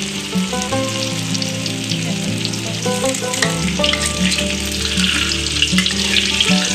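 White tofu strips frying in vegetable oil in a pan: a steady sizzle with fine crackles throughout. Background music plays underneath.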